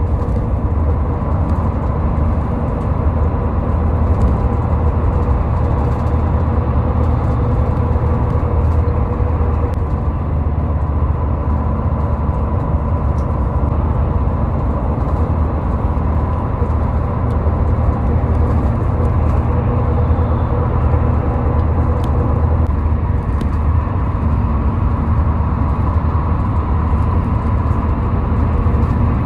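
Steady road and engine noise of a car driving at highway speed, a continuous low rumble with a faint steady hum above it.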